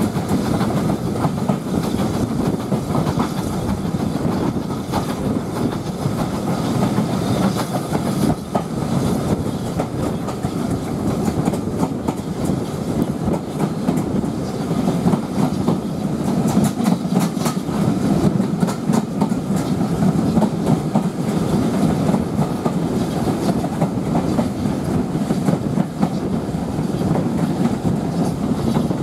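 Steam-hauled passenger train running along the line, heard from a carriage window, with a steady rumble and the wheels clattering over the rails.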